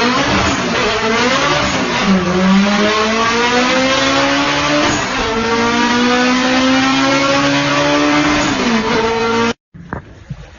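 Car engine accelerating hard through the gears, its pitch climbing, dropping briefly at each of about three upshifts and climbing again. It cuts off abruptly near the end.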